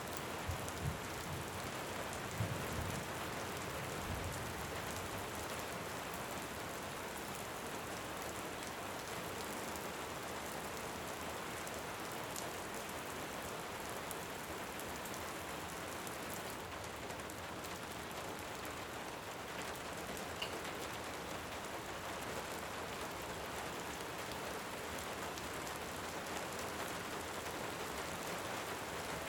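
Steady rain, with low rumbles of distant thunder dying away in the first few seconds and a few sharp pops.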